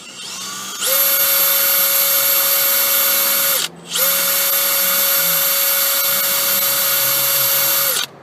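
Cordless drill running at a steady speed, drilling a pilot hole into a broken stud for a screw extractor. It runs for about three seconds, stops briefly, then runs again for about four seconds.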